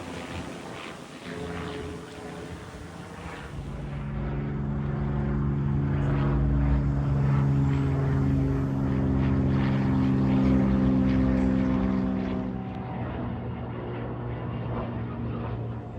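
Propeller airplane's engines droning as it passes, growing louder to a peak about halfway and then fading away.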